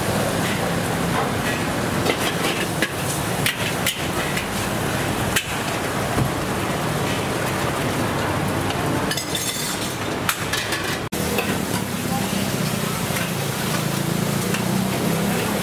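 Food frying and sizzling, with frequent sharp clinks and knocks of metal cooking utensils.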